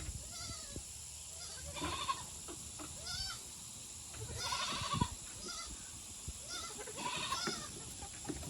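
Chickens giving a series of short, arching calls, one about every second, the nervous calling of hens that have just been handled and startled.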